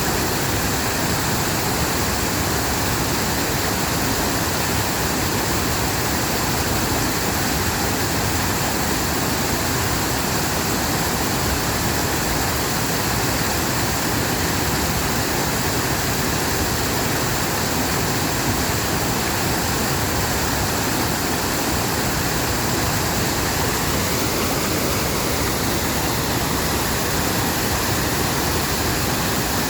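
Rushing water of a mountain valley stream: a steady, unbroken noise.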